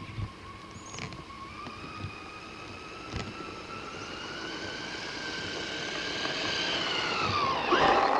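Motor of a radio-controlled toy car whining as it drives. The pitch climbs slowly and the sound grows louder, then it drops in pitch near the end as a louder, noisier burst comes in.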